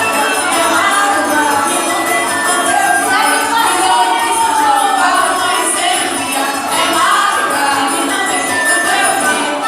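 Live Brazilian folk song: voices singing over a jingling hand percussion instrument, with the music running steadily.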